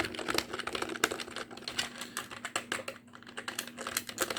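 Fast typing on a computer keyboard: a dense run of key clicks that thins briefly about three seconds in.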